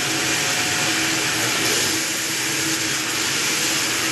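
Water pressure test pump running steadily, a motor hum with a steady whine over a wide, even hiss of pressurised water.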